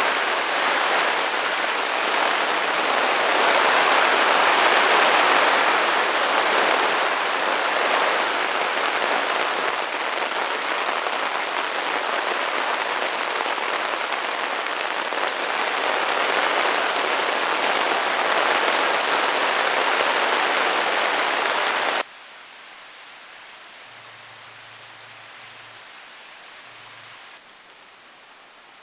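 Heavy rain pouring down in a dense, steady hiss. It cuts off abruptly near the end, leaving only a much quieter faint hiss.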